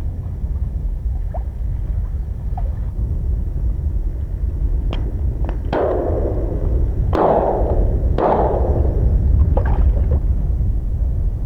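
Shotguns firing at eider ducks coming in over decoys: three loud shots about a second apart from about six seconds in, with fainter reports before and after, over a steady low rumble.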